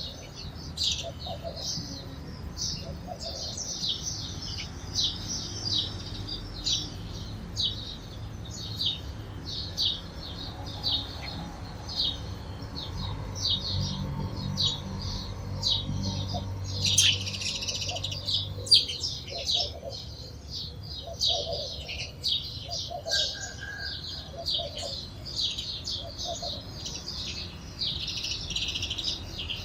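Sparrows chirping over and over in a steady run of short, high chirps, about two a second, with a busier burst of chirping a little past the middle.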